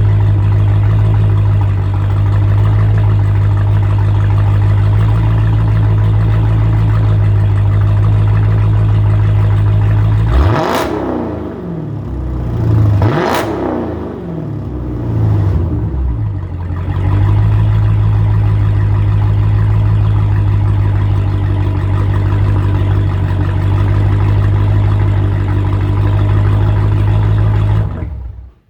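Straight-piped Dodge Challenger exhaust idling steadily, then revved sharply twice in quick succession about ten seconds in, the pitch shooting up and falling back each time before it settles back to idle. The sound cuts off suddenly near the end.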